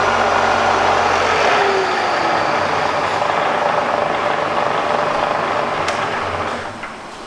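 Bridgeport Vari-speed milling head's motor and spindle running at about 2,200 RPM with a steady whir. The sound sinks gradually and drops away near the end as the spindle comes off speed.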